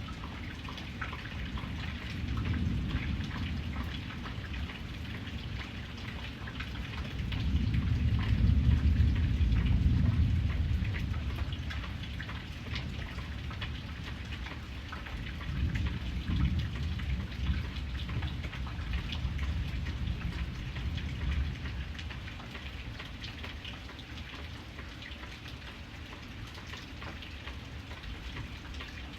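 Steady rain falling, with many small drop ticks, and low rolls of distant thunder: the loudest swells about seven to eleven seconds in, with a weaker one from about fifteen to twenty-one seconds.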